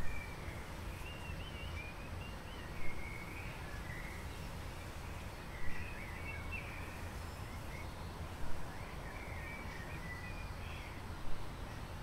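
A songbird singing short, warbling phrases over a steady low rumble of outdoor noise, with a brief thump about every three seconds.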